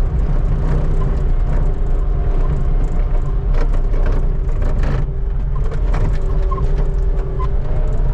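Skid steer engine running steadily under work, with a few short, sharp knocks and scrapes about three and a half to five seconds in.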